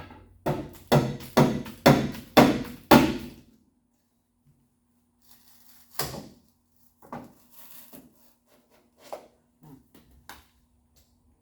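A hammer striking a chisel six times in quick succession, about two blows a second, to chip out rock-hard old filler packed into rusted body metal, followed after a pause by several lighter scattered knocks.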